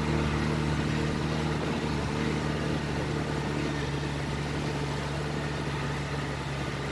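Dump truck's diesel engine running steadily, a constant low hum that eases slightly about halfway through.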